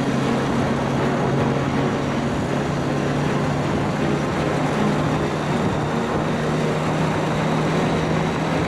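Motorcycle engine running at a steady cruising speed, with a steady rush of wind and road noise over the bike's microphone.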